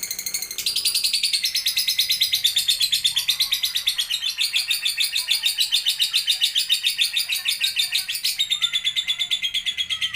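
Lovebird singing a long, rapid, high chattering trill of about seven notes a second, unbroken throughout, with a slight change in tone near the start and near the end.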